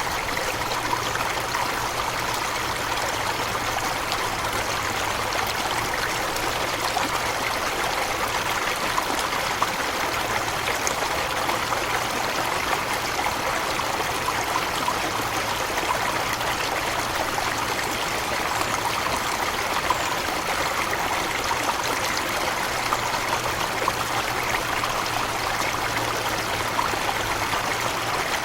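Forest waterfall and stream splashing and rushing steadily, a constant even noise of falling water.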